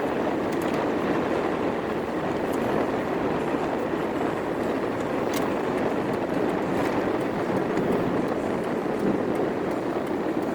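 Steady road noise inside a moving car's cabin: tyres running on wet pavement, a constant rushing hiss with a few faint ticks.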